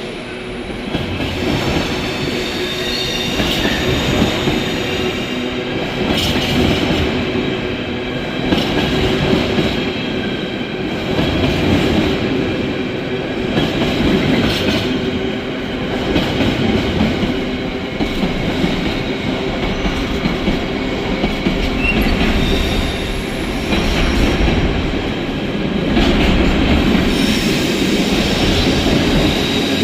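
Train pulling out of the station and running past, a steady rumble of wheels and running gear with held whining tones and regular knocks from the wheels over the rail joints about every two seconds.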